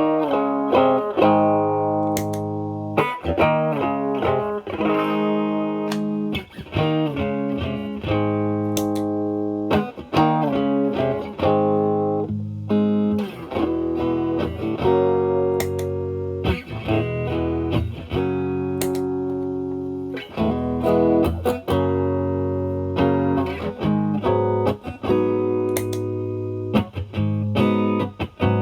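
Fender Stratocaster electric guitar played through an Ibanez Tube Screamer Mini overdrive pedal, drive knob at zero, into a Marshall Valvestate amp on its clean channel: a near-clean tone with a light edge. Chords and single-note phrases are picked, each attack ringing out.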